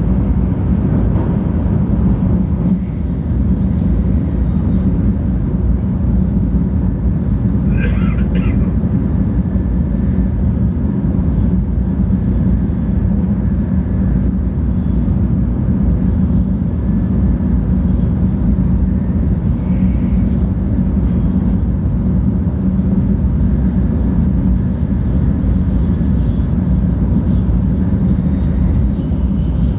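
Cabin noise of a 700 series Shinkansen running at speed: a steady low rumble and hum of the train on the track, with a brief sharp sound about eight seconds in.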